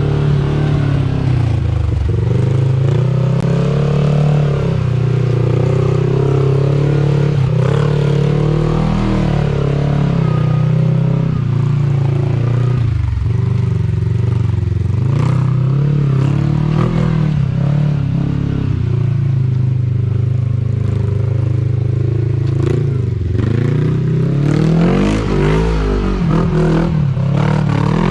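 Kawasaki Teryx KRX 1000 side-by-side's parallel-twin engine working hard under load, revs rising and falling as it climbs a rocky waterfall. Knocks and scrapes against rock come through, most of them in the second half.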